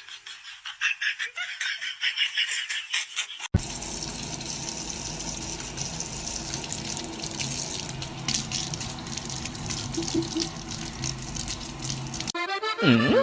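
Running and splashing water, like a tap running into a sink. About three and a half seconds in it cuts suddenly to a steadier rush of noise.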